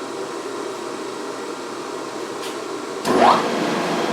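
Steady machine hum, then about three seconds in a motor spins up with a quick rising whine and settles into a louder, steady run, like a milling machine spindle being switched on before a cut.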